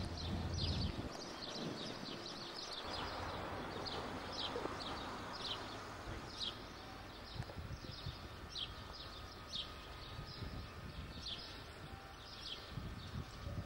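A bird calling over and over, short high downward-sliding chirps about once a second, over faint outdoor background noise.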